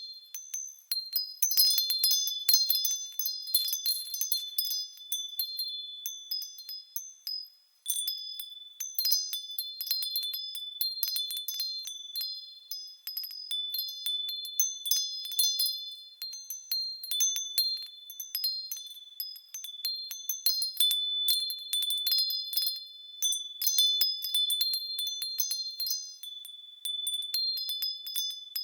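Japanese fūrin wind chimes jingling irregularly as the wind swings their clappers: high, clear ringing tones with many quick strikes. The ringing dies away for a moment about seven and a half seconds in, then picks up again.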